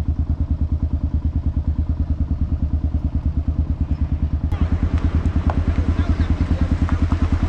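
Motorcycle engine running at a steady, even pulse, as though ridden at constant low speed. Fainter higher sounds join about halfway through.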